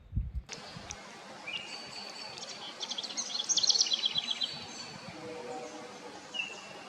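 Woodland songbirds singing over steady background noise. A loud, rapid trill of repeated high notes comes a few seconds in, with short whistled phrases before and after it. A low thump comes at the very start.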